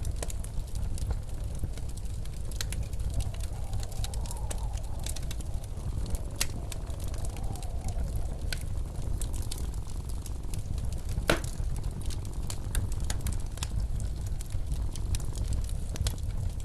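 Wood fire crackling in a fireplace, with irregular sharp pops and one louder pop about two-thirds of the way through, over the steady low rumble of snowstorm wind. A faint wavering howl of wind rises and falls a few seconds in.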